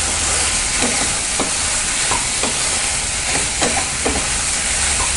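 Chopped tomatoes, green chillies and whole spices sizzling in oil in a non-stick pan, with a spatula stirring and scraping the pan about seven times. The tomatoes have cooked down and the oil is starting to separate.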